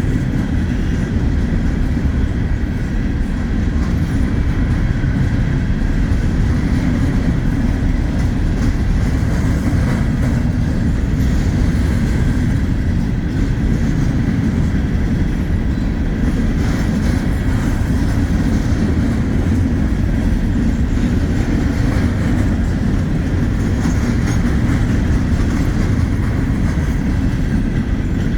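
Wheeling & Lake Erie freight train rolling past, a steady rumble of wheels on the rails.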